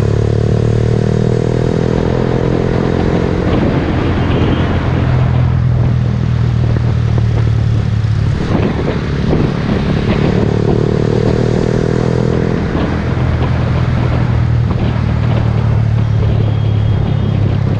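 Honda Grom's 125 cc single-cylinder engine running steadily as the bike rides through traffic, heard from the rider's position with wind and road noise. Its note breaks up briefly about halfway through, then settles back to the same steady running.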